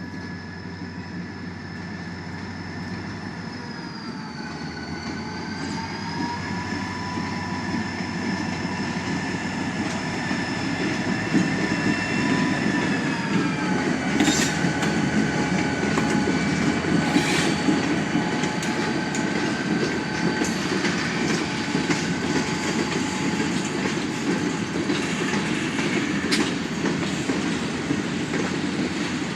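Norfolk Southern freight train rolling by, its low rumble growing louder over the first half. Over it run several high steady squealing tones, typical of wheel squeal, whose pitch dips twice. From about halfway there are scattered clicks and clacks from the wheels.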